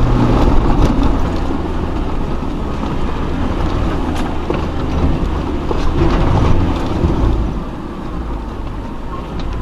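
Off-road 4x4's engine running at low revs under load, crawling over rough terrain, with a few short knocks from the vehicle.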